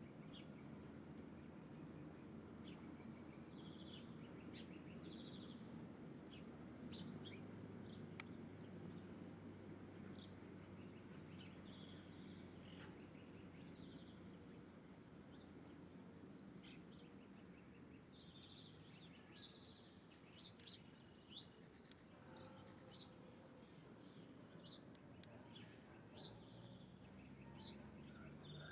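Faint chirping of small wild birds: many short, high calls scattered throughout, coming thicker in the second half, over a steady low background rumble.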